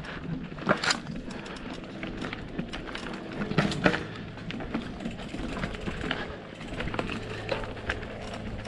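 Mountain bike riding along a rough trail: steady tyre and trail noise with irregular clicks and knocks as the bike rattles over the ground.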